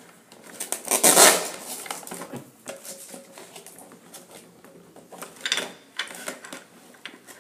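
Hard plastic toy pieces and packaging being handled: light clicking and clattering of plastic, with a louder rustle about a second in.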